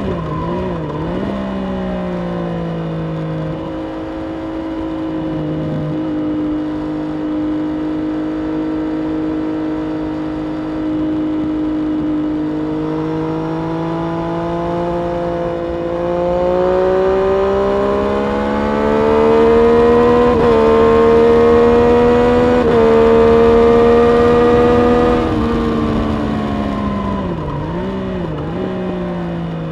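Triumph Street Triple RS three-cylinder engine at track pace: quick throttle blips on downshifts about a second in, then a long pull building in pitch with two quick upshifts about two-thirds in. It closes off and blips down through the gears again near the end.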